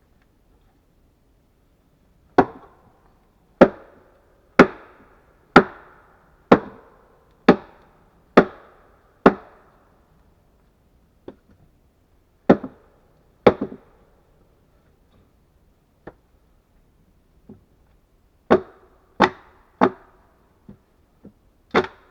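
Axe blows chopping wood: a run of about eight sharp strikes roughly one a second, then after a pause a few more, and near the end a looser series of heavy and light blows.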